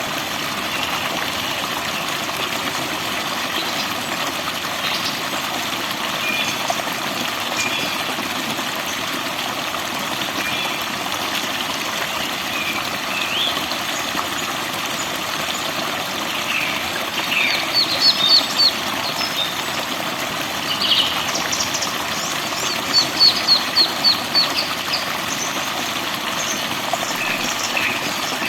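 Steady rush of falling water with forest birds singing over it: scattered chirps and short whistles, and twice a quick run of about six high notes, once past the middle and once near the end.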